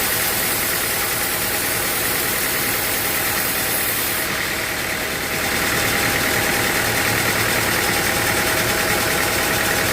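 Sawmill machinery running steadily with an engine-like drone. About halfway through the high hiss changes and the sound grows slightly louder.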